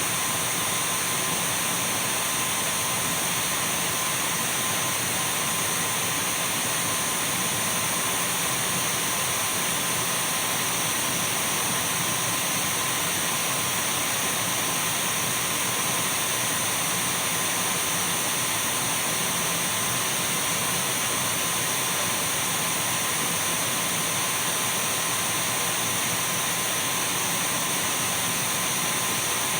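Dyson V12 cordless stick vacuum cleaner running steadily: an even whooshing motor and airflow hiss with a faint high whine, unchanging throughout.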